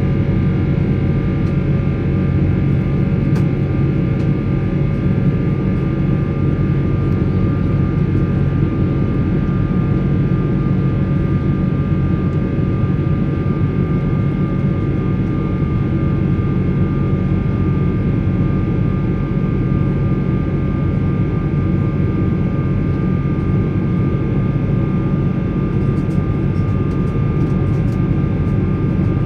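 Steady cabin noise of a Boeing 777-300 with Rolls-Royce Trent 800 engines, heard from inside the cabin: a loud, even engine drone with several steady whining tones on top, unchanging throughout.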